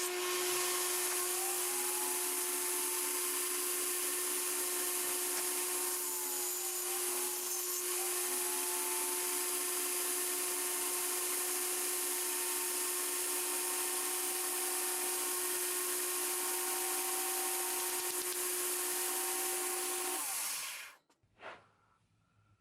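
An electric power tool running steadily, its motor pitch dipping briefly about seven seconds in, then switched off near the end and winding down quickly, leaving a few faint clicks.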